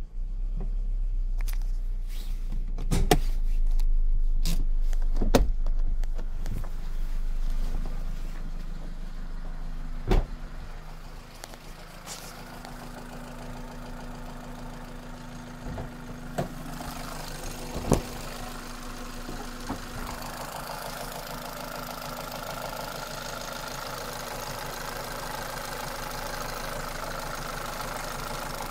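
Toyota Celica's 2ZZ-GE four-cylinder engine running, louder for the first few seconds and then settling to a steadier hum. A handful of sharp single knocks cut through now and then. The owner complains of a knock in this engine.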